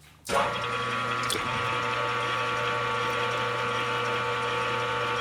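Metal lathe machinery running steadily, a mechanical hum and gear-like whir that starts shortly after the beginning and runs about five seconds, while the hole is lubed up for tapping.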